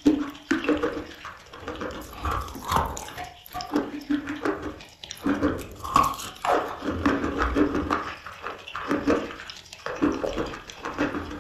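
Close-miked chewing of chalk: bites crunching into dry chunks, mixed with wet, sticky mouth sounds as the softened chalk paste is chewed, in an irregular stream of crunches and smacks.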